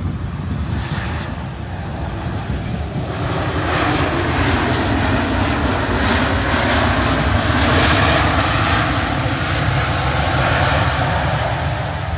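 Airliner on its landing approach passing close by, its engines a broad rushing roar that swells from about three seconds in, is loudest past the middle, then holds.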